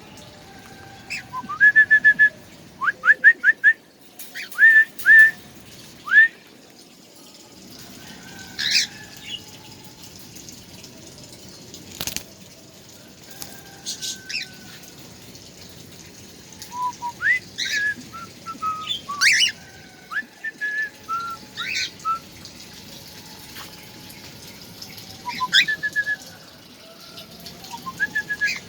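Songbird calling in short bursts of quick, whistled chirps, many rising in pitch, with pauses of a few seconds between phrases.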